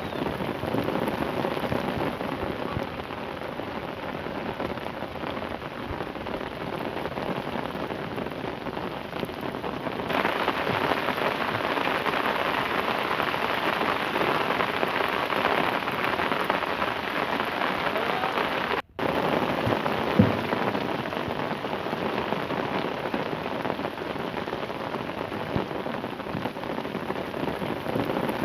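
Steady rain falling, a dense even hiss that grows louder about ten seconds in and briefly cuts out near the middle. There is a single short knock shortly after the cutout.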